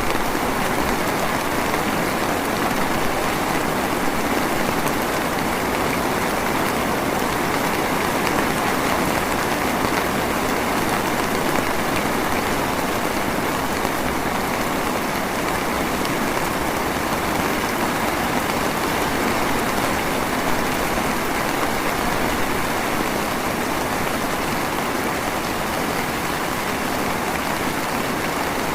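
Drizzle falling steadily: an even, unbroken patter of raindrops.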